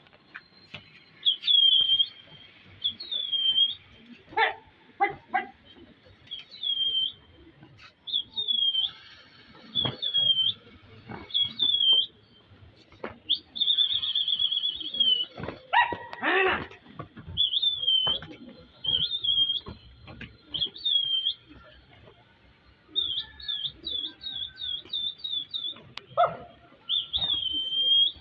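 A small bird chirping over and over: a short, high call repeated every second or two, coming in a quicker run near the end. A few louder, lower sounds break in, the strongest about halfway through.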